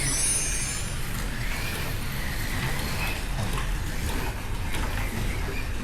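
Slot cars lapping the track in a race: a steady mix of small electric motors whining and gears and guides running on the plastic track, the whine rising and falling slightly as cars speed up and brake.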